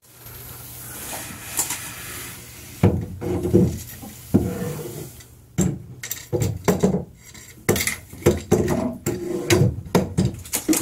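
Irregular knocking, scraping and rustling as things are moved and bumped around under a bathroom sink while reaching for a hidden bird, with sharp clattering knocks coming thick and fast in the second half.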